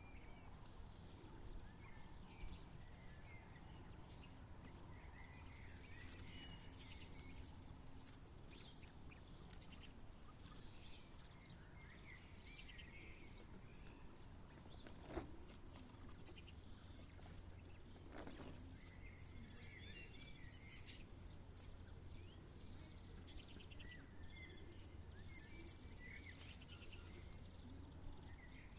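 Quails making faint, scattered soft chirps, with a few short louder calls and light clicks over a low steady hum.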